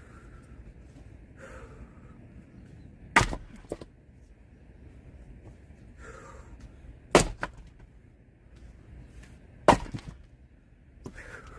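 Axe splitting firewood: three sharp chops a few seconds apart, each followed by a few smaller knocks.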